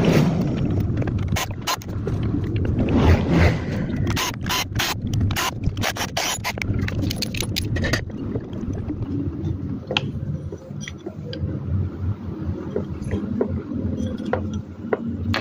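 Metal parts and hand tools clicking, knocking and scraping while a standing fan's motor housing is taken apart. The clicks come thick and fast at first and thin out about halfway through, over a steady low hum.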